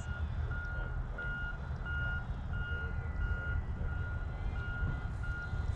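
Regular electronic beeping from a radio-control transmitter counting down its flight timer, about three short beeps every two seconds, over a steady low rumble.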